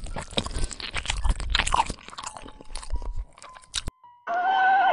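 Gorilla crunching and chewing a raw carrot: a dense run of crisp, irregular crunches that stops about four seconds in. Near the end a horse starts to whinny.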